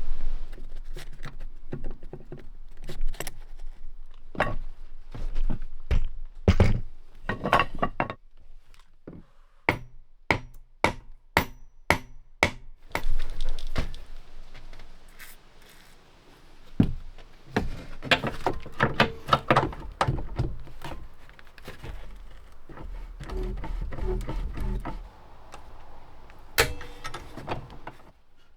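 Hand tools knocking on wood inside a wooden boat's hull: a long irregular run of sharp knocks and thuds, coming in quick clusters at times, as a hammer and pry bar work to lift old tar-like seam compound from the bilge.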